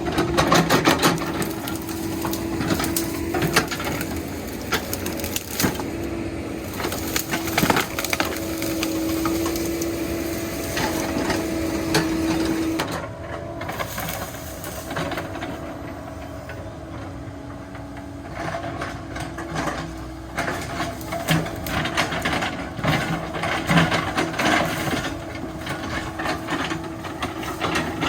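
Cat 308 excavator's diesel engine running with a steady hum while the machine breaks through brush and deadfall, with many sharp cracks and snaps of splintering wood. The cracking comes in clusters, thickest at the start and again in the last third, and the engine note drops about halfway through.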